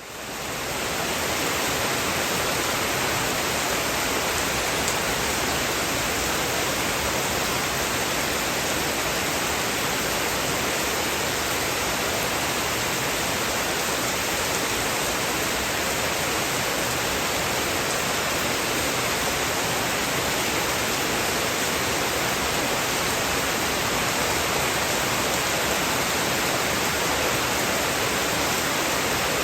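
Heavy rain falling steadily as an even hiss, fading in over the first second.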